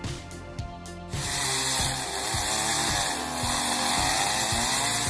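Chainsaw running at high speed, cutting, starting suddenly about a second in, its pitch sagging and picking up again as it cuts, over background music.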